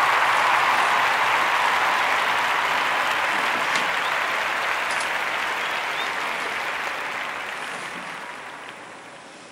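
Audience applause that fades out steadily.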